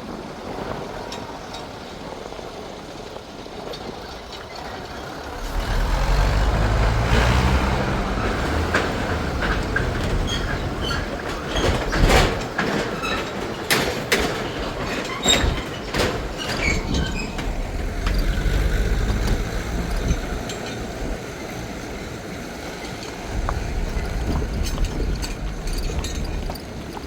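A motor vehicle's engine runs, rising about five seconds in and then easing off, with a run of sharp knocks and clanks in the middle.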